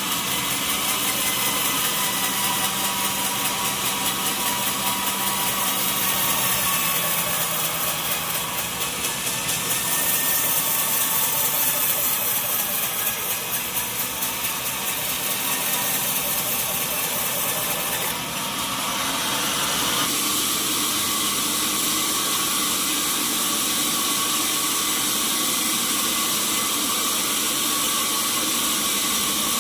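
Sawmill machinery running steadily, a continuous mechanical hum and whine. Its sound changes about eighteen to twenty seconds in.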